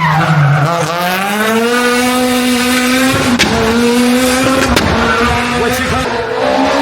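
Rally car engine at full load on a special stage: it drops in pitch as the car slows, then rises as it accelerates hard and holds high revs. Two sharp cracks come about halfway through and again a second and a half later.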